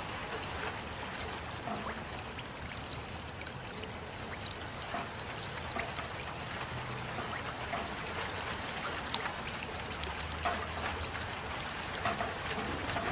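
Steady rain with many small drops pattering and water trickling.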